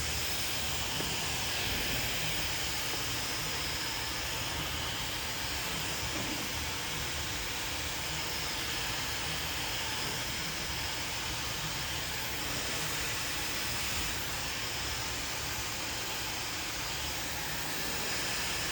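Handheld hair dryer blowing steadily, a constant rush of air with no change in speed.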